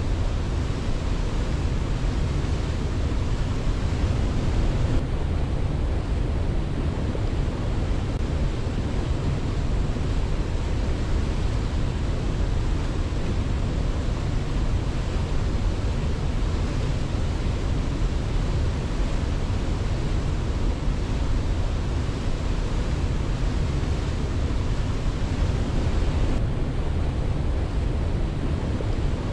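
Steady rushing water, like a waterfall: a constant, deep noise with no breaks or separate events.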